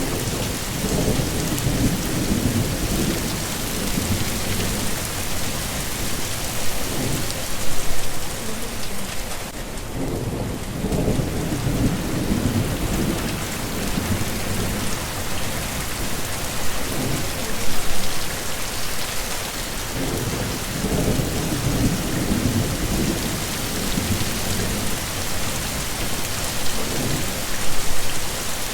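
Heavy rain falling steadily, with low rolls of thunder rumbling underneath again and again and peaking about every ten seconds.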